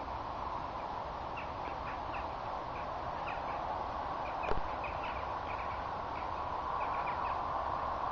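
Small birds chirping in short, scattered calls over a steady background noise, with one sharp knock about four and a half seconds in.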